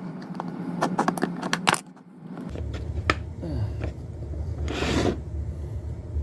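Hard objects clinking and knocking as metal tooling is handled, a quick run of sharp clicks. After a short lull a steady low hum sets in, with a brief hiss about five seconds in.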